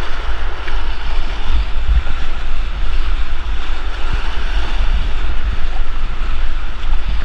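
Steady rush of whitewater creek water, with low buffeting wind noise on the microphone.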